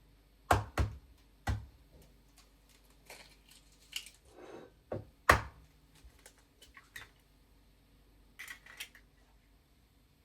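Kitchen work sounds: several sharp knocks, three in the first second and a half and a loud one about five seconds in. Softer clicks and a brief rustle come between them.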